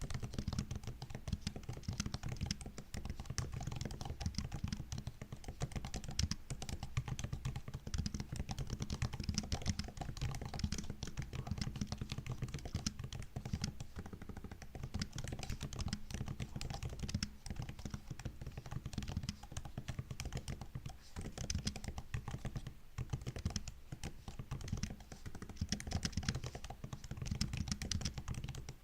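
Typing on a MacBook keyboard: a fast, continuous stream of light key clicks and taps, broken by a few short pauses.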